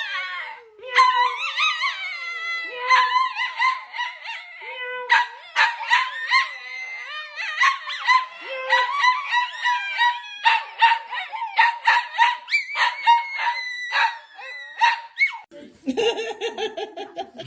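Dogs howling and whining in a long run of high, wavering calls broken by short sharp yips, reacting to a person imitating a cat's meow. Near the end, lower-pitched sounds of another kind take over.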